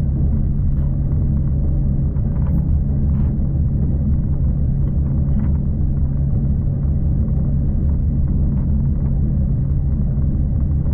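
V/Line passenger train running at speed, heard from inside: a steady low rumble with a faint high whine and a few light clicks.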